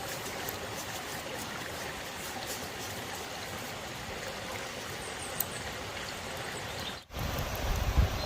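Steady rush of a flowing stream. About seven seconds in it cuts off abruptly and a louder low rumble takes over.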